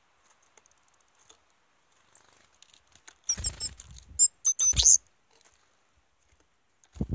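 Small bird at a wooden feeder: short, high chirps mixed with scratching and tapping on the wood, bunched between about three and five seconds in, then a single dull thump near the end.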